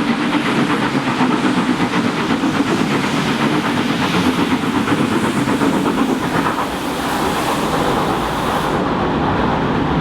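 Royal Scot class 46100's three-cylinder steam engine working hard under load, a fast, even beat of exhaust over steam hiss, followed by the rolling of the train's carriages as the rhythm smooths out about two-thirds of the way in.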